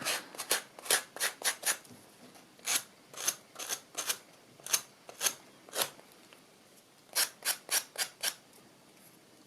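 Sanding block rubbed in short, quick strokes along the edge of a small cut-out MDF shape, coming in three runs of several strokes each with brief pauses between.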